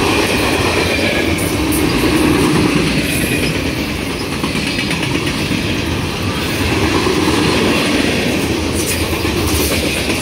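CN freight train's covered hopper cars and tank cars rolling past close by: a loud, continuous rumble of steel wheels on the rails, with occasional clicks.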